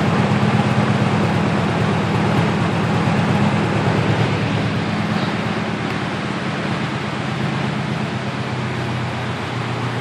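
Honda D16Z6 1.6-litre SOHC four-cylinder, built with high-compression pistons and a Bisimoto level 3 cam, idling steadily through its custom exhaust soon after its first start-up. The low, even engine note eases a little in level over the second half.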